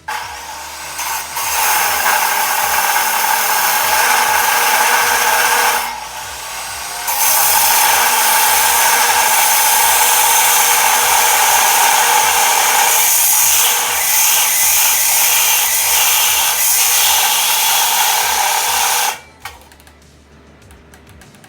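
Electric power tool cutting metal stock for a gate, a loud steady grinding whine that dips briefly about six seconds in, then resumes and cuts off suddenly near the end.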